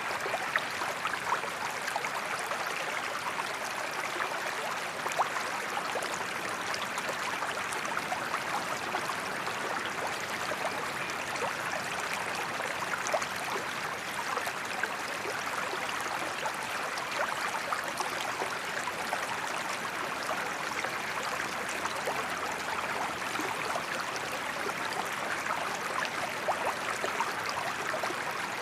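Waterfall water rushing steadily, a constant splashing hiss flecked with small droplet splashes.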